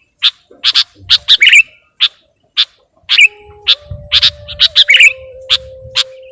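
Sooty-headed bulbul (kutilang) calling in a rapid series of short, sharp chirps, several a second with small gaps. A faint steady tone comes in about three seconds in, shifting pitch a couple of times before it holds.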